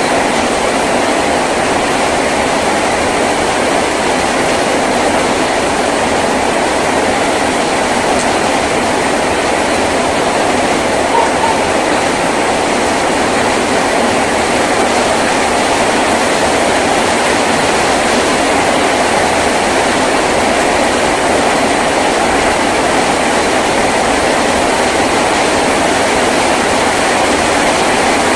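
Heavy rain drumming steadily on a tin roof, a dense even hiss with no let-up.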